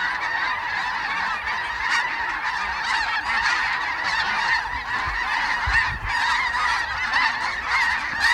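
A large flock of snow geese calling, a dense chorus of many overlapping honks that never lets up.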